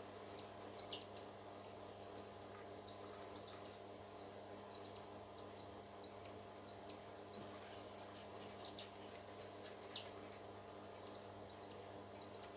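High-pitched bird chirping in short rapid bursts repeating every second or so, over a faint steady hum.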